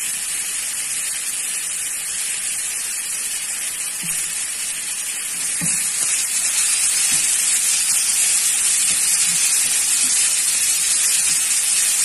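Minced beef with onions and garlic sizzling steadily in a frying pan, the hiss growing louder about halfway through as the mixture is stirred. A few light knocks of a wooden spatula against the pan.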